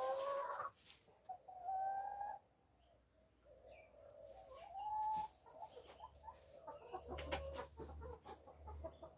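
Backyard hens calling: three drawn-out, rising clucking calls in the first half, then rustling and short clicks near the end.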